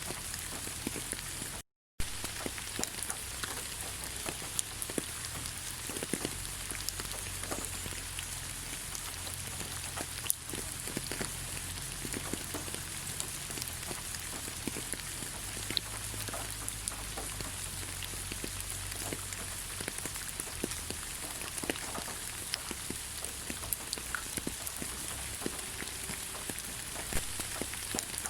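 Steady rain falling on leaves: a continuous hiss with many separate drop ticks. The sound cuts out completely for a moment about two seconds in.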